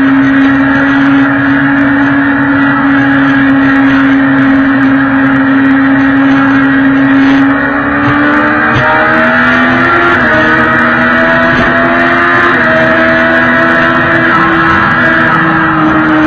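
Sport motorcycle engine running hard at high revs, heard from a camera mounted on the bike, with wind rush. About eight seconds in the revs drop, then climb slowly as the bike accelerates.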